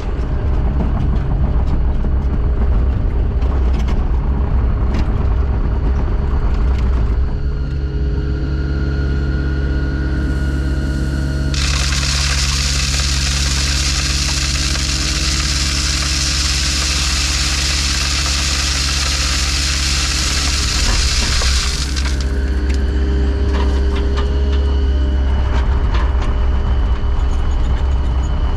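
Engine of a piece of earthmoving machinery running steadily; its note shifts about a quarter of the way in, and for about ten seconds in the middle a loud hiss covers it.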